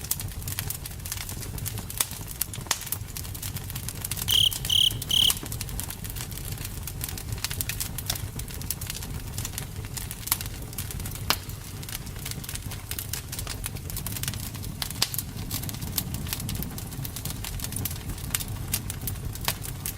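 Campfire burning with a steady low rumble and frequent sharp crackles and pops of burning wood. Three short high chirps come about four seconds in.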